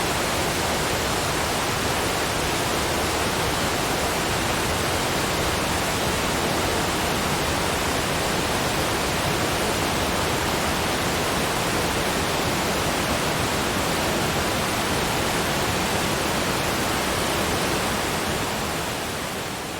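Waterfall: a steady, even rush of falling water that fades out in the last couple of seconds.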